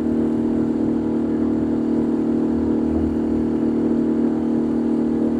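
Boat motor running with a steady, even drone.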